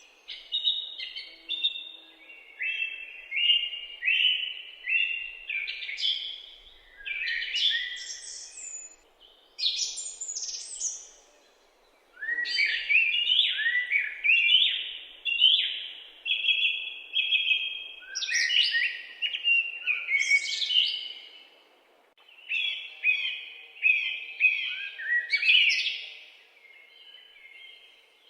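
Songbirds singing and chirping in quick runs of short, high notes, with two brief lulls partway through.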